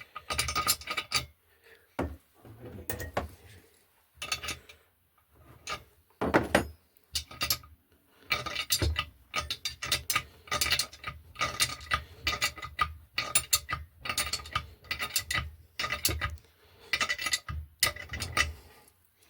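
A ratchet wrench with a 19 mm socket clicking in quick repeated strokes as a nut is run down and tightened, sparse at first and then steady and rapid from about halfway.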